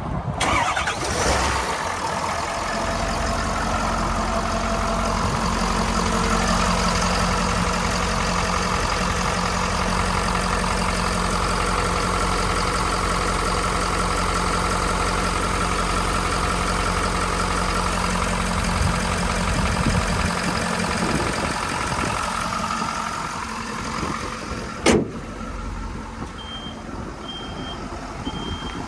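Ford 6.7L Powerstroke diesel engine starting and then idling steadily. Near the end the engine sound eases, a sharp click sounds, and a regular high beep begins, like a backup alarm.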